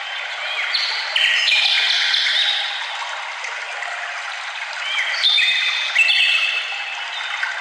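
Several songbirds singing together, with quick overlapping high whistled notes and short phrases, busiest about a second in and again around five to six seconds in, over a steady background hiss.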